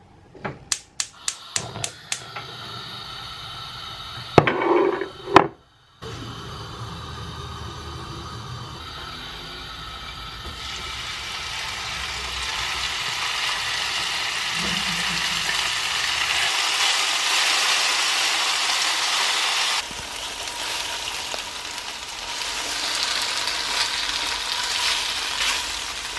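Pork pieces sizzling in hot oil in a frying pan, the sizzle growing louder over several seconds, breaking off once and then coming back. Near the start there is a quick run of clicks, then a couple of loud knocks about five seconds in.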